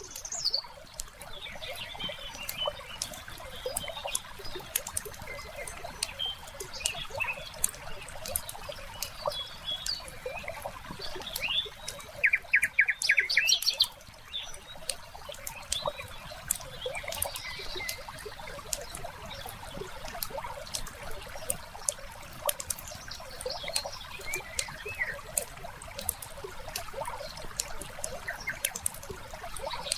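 Wood fire crackling with frequent small pops, over a bed of bird chirps. About halfway through a bird gives a loud, fast trill lasting a second or two, the loudest sound here.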